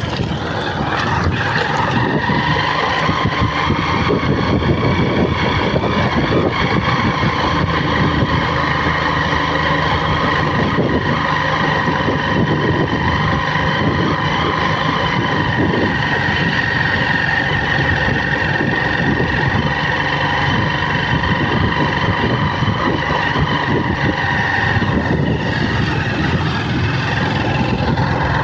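A vehicle under way with its engine running steadily, a continuous drone with a steady high whine held throughout.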